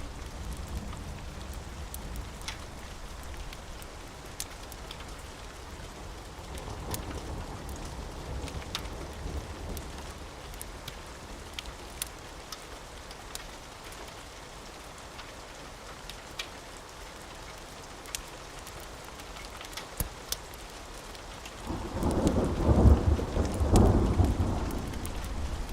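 Steady rain with scattered sharp pops and crackles, then a loud rolling rumble of thunder about 22 seconds in that lasts a few seconds.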